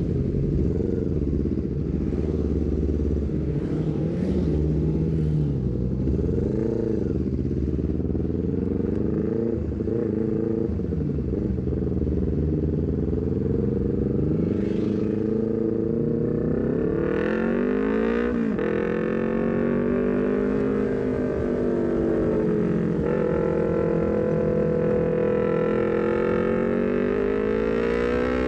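Honda CBR250RR parallel-twin engine through a full-system exhaust with a short Leovince GP Corsa carbon silencer, under way: the pitch rises and falls with the throttle for the first half. Then the revs climb steadily, dip sharply at an upshift about 18 seconds in, and climb again.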